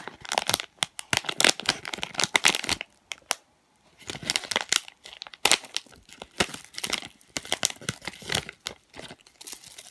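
Plastic blind-bag packaging crinkling and being torn open by hand, a dense run of crackles with a brief pause about three seconds in.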